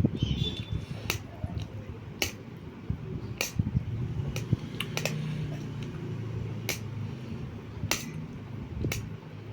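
Close-up eating noises: chewing and mouth sounds, with sharp clicks about once a second.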